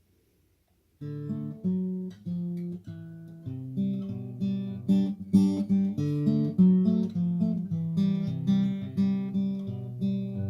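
Acoustic guitar playing a song's instrumental intro, plucked notes in a steady repeating pattern, starting about a second in.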